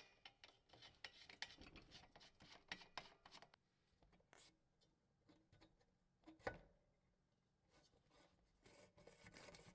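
Near silence with faint, scattered light clicks and rubbing, and a single louder click about six and a half seconds in.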